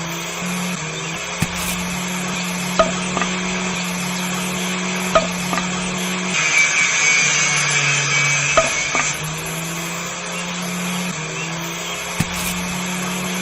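A small electric motor runs with a steady hum that shifts pitch a few times, and a higher whine comes in for a few seconds past the middle. Sharp taps or clicks are heard every couple of seconds.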